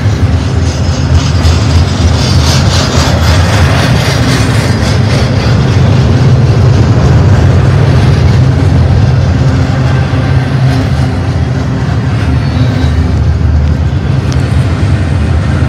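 Double-stack intermodal container well cars rolling past at close range: a steady rumble of steel wheels on the rails, with a stretch of rattling clicks a few seconds in.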